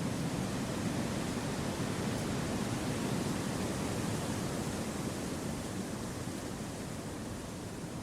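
Steady wind blowing through forest trees: an even, low rushing noise with no distinct gusts, easing slightly near the end.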